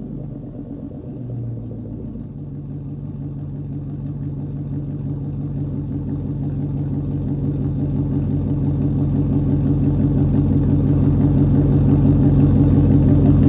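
Chevy 5.3 L V8 with a catless Magnaflow Magnapack exhaust idling at a steady speed, the exhaust note with its even firing pulses growing steadily louder.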